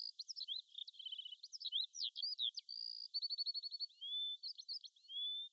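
A songbird singing a rapid, varied string of chirps, trills and short whistles, thin and high-pitched with nothing in the low range.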